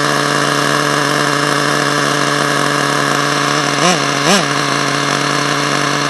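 HPI 4.1 nitro engine in an HPI Savage RC truck idling steadily, with two quick blips up in revs about four seconds in. The owner suspects it is running a little lean.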